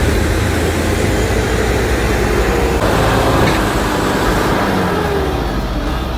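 Heavy diesel dump truck engine running hard, its revs rising and falling as it labours to pull through mud.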